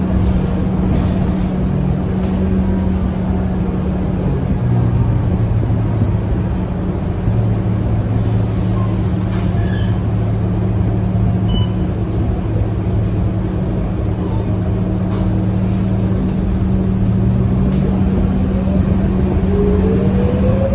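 Scania K230UB city bus running steadily, a low engine drone heard from on board, with a whine that rises in pitch over the last few seconds.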